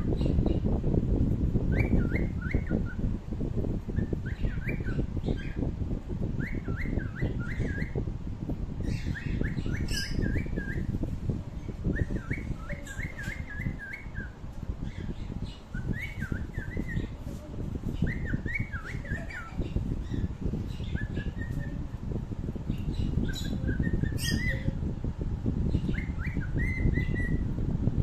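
A bird chirping in short groups of quick notes, repeated every second or two, over a steady low rumble.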